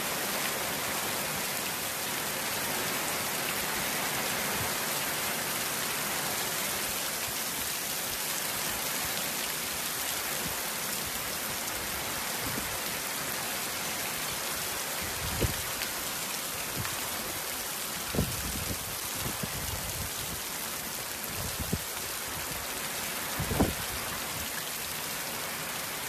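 Heavy rain pouring down in a steady, unbroken hiss, with a few brief low thumps in the second half.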